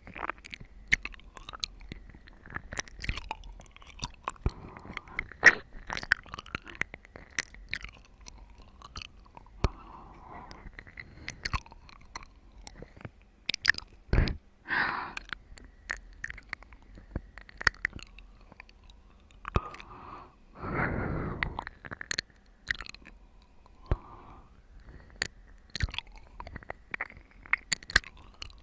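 Close-miked ASMR mouth sounds of chewing and biting watermelon: many wet clicks and smacks, with a louder rushing sound lasting about a second and a half about twenty seconds in.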